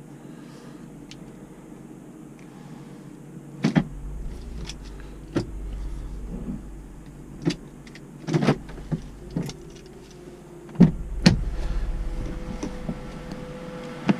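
Toyota Avalon's 3.5-litre 2GR-FE V6 idling steadily, with a series of sharp clicks and knocks from around the car starting a few seconds in. A deeper rumble comes and goes under the idle.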